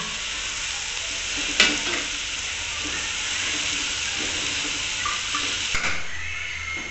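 Chicken and vegetable filling sizzling as it fries in an aluminium karahi, stirred with a metal spatula; the spatula clicks sharply against the pan about a second and a half in and again near the end.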